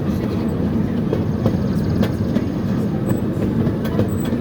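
Scenic-railway ride train rolling along the track, heard from on board: a steady low rumble with scattered clicks of the wheels over the rails.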